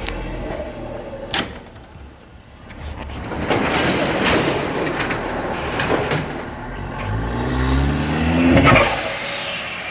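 Car driving, with a sharp click about a second and a half in and a stretch of rushing noise. Near the end the engine revs up, rising in pitch to the loudest point.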